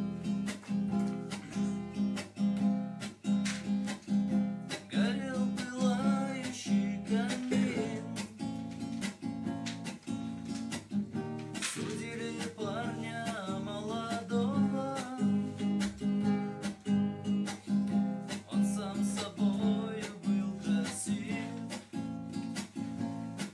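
Acoustic guitar strummed in a steady rhythm, about two strokes a second.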